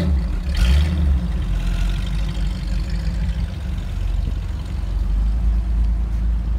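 1968 Shelby Mustang GT500KR's 428 Cobra Jet V8 idling with a low, steady rumble, after a short burst of throttle about half a second in.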